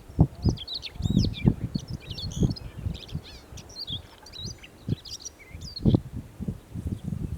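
Siberian rubythroat singing: a long, rapid, varied warble of high notes that pauses about five seconds in, then a few more notes near the end. Irregular low thumps run underneath, the loudest about six seconds in.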